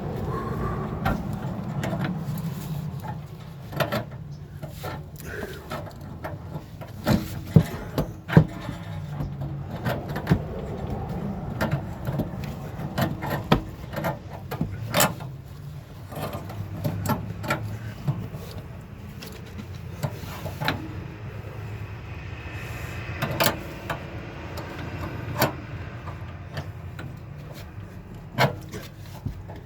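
Irregular clicks, knocks and clinks of hand tools and metal parts being handled during plumbing work on a water heater, over a steady low hum, with a few louder knocks partway through.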